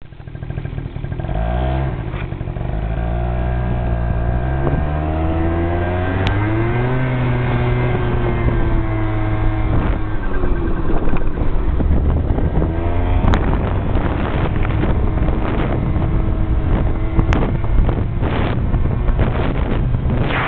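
A vehicle engine running, its pitch rising and falling in the first half, then rougher and noisier with a few sharp clicks.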